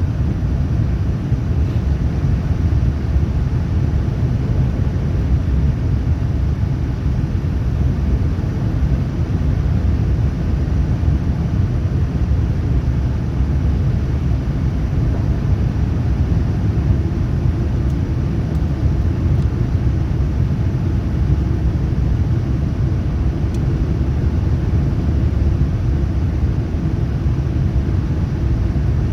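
Cabin noise of a Boeing 787-9 in flight, heard from an economy window seat: a steady, loud low rumble of airflow and Rolls-Royce Trent 1000 engines.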